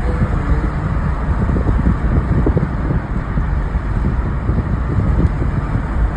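Car driving on the road, heard from inside the cabin: a steady low rumble of road and engine noise with some wind.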